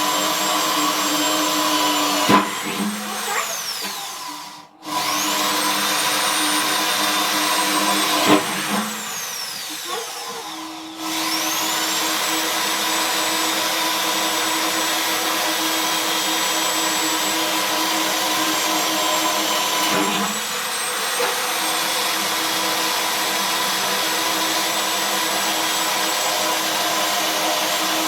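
Electric drill spinning up with a rising whine and winding down, twice in the first ten seconds. It then runs steadily while drilling the ring of holes for a headlight.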